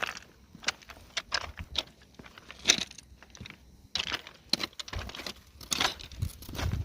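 Irregular crunching footsteps, a few short scuffs a second, with a low rumble coming in about five seconds in.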